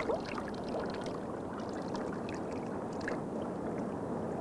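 Steady rush of moving water, as from a whirlpool swirling where a rowing scull's oars stir the surface.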